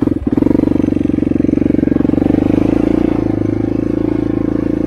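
Yamaha four-wheeler's single-cylinder engine running with an even, rapid beat; it picks up revs a moment in, then holds steady.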